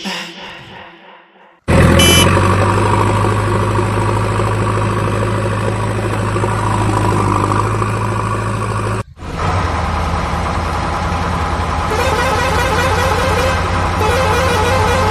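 Steady vehicle engine sound with a strong low hum and a short horn toot just after it starts. It cuts out for an instant about nine seconds in, then carries on.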